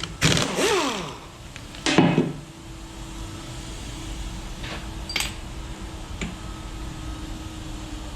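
A cordless power tool runs in short bursts, backing out the side bolts of an aluminum-block 5.7L LS1's main caps, and its pitch winds down after the first burst. A few light metal clicks follow over a faint steady hum.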